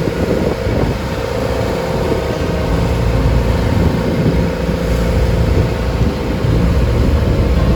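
Engine of a wooden passenger boat running steadily under way: a loud, unbroken low rumble with a steady hum over it.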